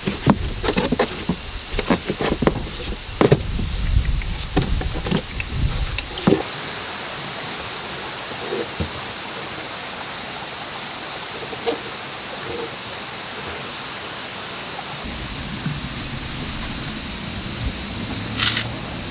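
A loud, steady high-pitched hissing squeal from a Suzuki Jimny JB23's air-conditioning system while driving, with scattered clicks and knocks in the first few seconds. The noise comes from a clogged air-conditioner filter and a fouled evaporator.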